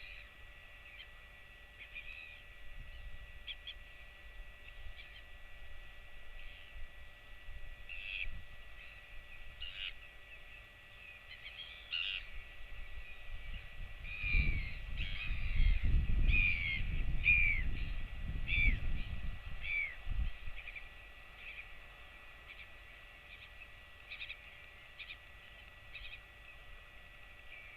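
Scattered short, high bird calls, with a run of quick falling calls through the middle. A low rumble swells for several seconds over the same stretch.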